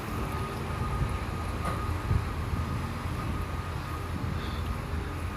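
Steady low engine rumble from the marina's heavy machinery and boats, with a faint high steady tone on top.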